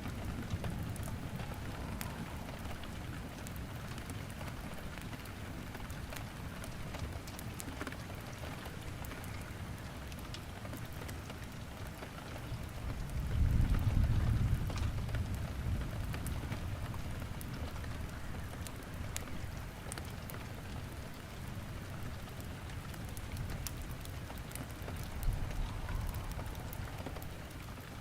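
Steady rain with scattered sharp crackles of burning firewood in a fireplace, and a low rumble of thunder swelling about halfway through, with a smaller rumble near the end.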